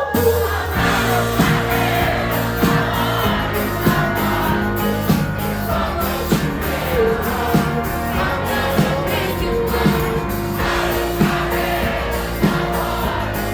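A live rock band playing at full volume, the band coming in with a steady drum beat just after the start, with singing over it that is typical of the audience singing along on cue.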